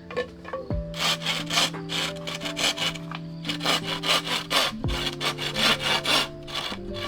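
Hand saw cutting wood in quick back-and-forth strokes, several a second, starting about a second in and stopping just before the end, over background music with long held notes.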